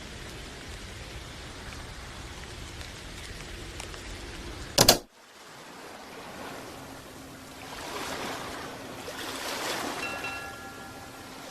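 Sound-effect ambience: steady rain hiss, broken about five seconds in by one sharp, loud crack, after which waves wash in twice in slow swells, with faint steady tones near the end.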